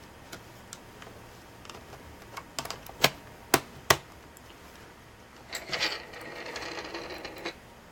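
A few sharp clicks and taps of small laptop parts being handled, then about two seconds of a paintbrush scrubbing dust off a small metal plate.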